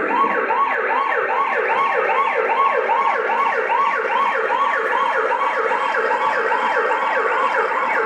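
Fast yelping siren, its pitch sweeping up and down about three times a second, starting abruptly.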